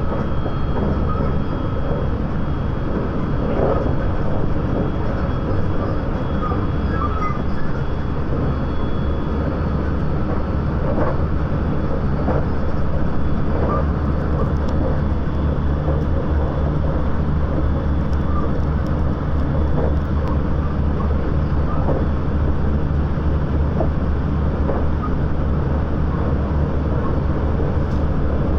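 Interior running noise of a JR West 681-series electric train's motor car: a steady rumble of wheels on rail and the traction gear underfoot, with occasional faint clicks.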